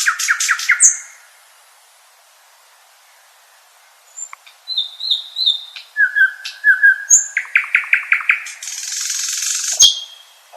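Common nightingale singing: a fast run of repeated notes ending in a high whistle, then after a pause of about three seconds a new phrase of varied notes and rapid trills that ends in a harsh rasp.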